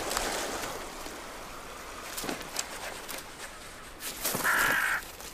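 A corvid (raven or hooded crow) giving one loud, harsh caw about half a second long near the end, with a faint shorter call earlier, over a steady background hiss.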